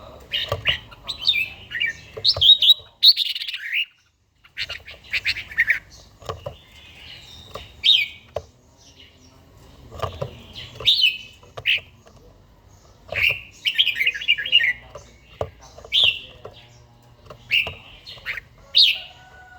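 Red-whiskered bulbul singing short, warbling whistled phrases, repeated every two seconds or so. The sound drops out briefly about four seconds in.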